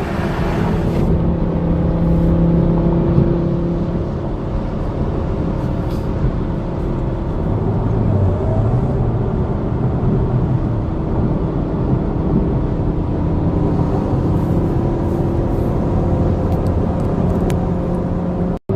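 Sports car engine running at a steady freeway cruise, a continuous drone with road noise and only small shifts in pitch; the sound cuts out for a moment near the end.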